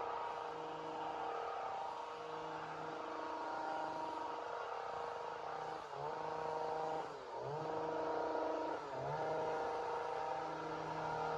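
Two-stroke chainsaw engine running at high speed, steady. In the middle it dips in pitch and comes back three times in quick succession, as the engine is briefly loaded and recovers.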